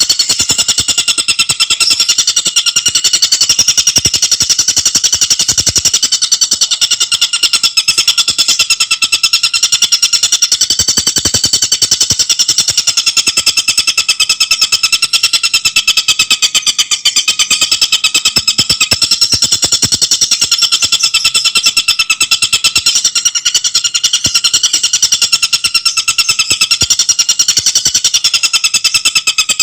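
Tengkek buto bird call, a high-pitched, very fast, tightly spaced chattering trill that runs on without a break.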